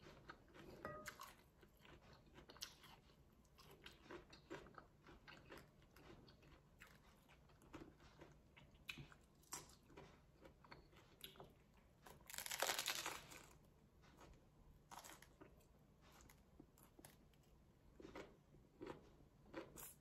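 Mouth sounds of biting and chewing a lettuce-wrapped taco: many short, faint crisp crunches and wet chewing clicks, with one louder, longer crunch a little past halfway.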